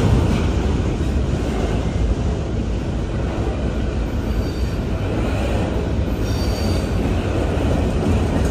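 Loaded freight train of covered hopper cars rolling past close by: a steady low rumble of steel wheels on rail. Short high-pitched wheel squeals sound twice on the curve, once about halfway through and again a couple of seconds later.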